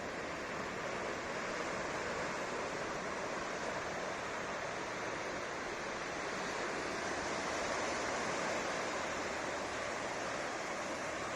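Atlantic surf washing onto the beach: a steady rushing hiss of breaking waves that swells slightly about two-thirds of the way through.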